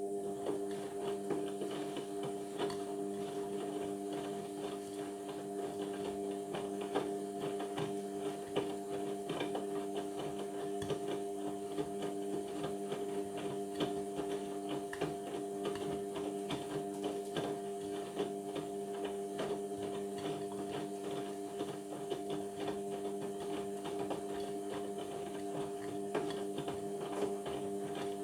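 Indesit washing machine humming steadily, several fixed tones with a scatter of small clicks and rattles over them.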